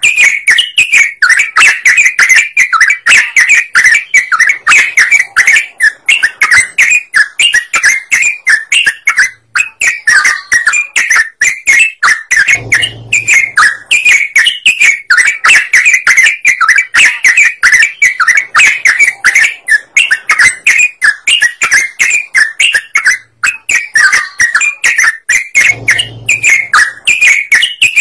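Yellow-vented bulbul singing hard: a loud, unbroken stream of rapid, sharp chattering notes, many per second, used as a lure call to draw in other birds.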